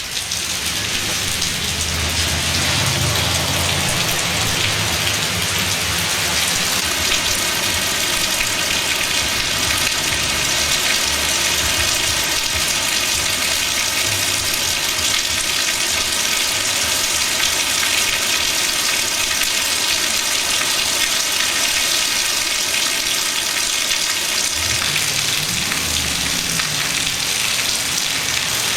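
Heavy hurricane rain pouring down in a steady, loud downpour, with low rumbles near the start and again near the end.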